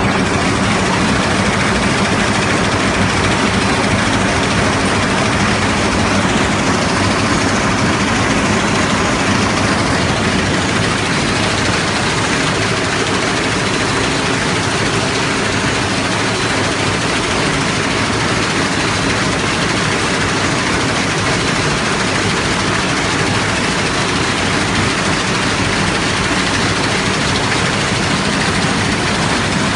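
Stick-gum primary and secondary packing machine running: a loud, steady mechanical noise that stays even throughout.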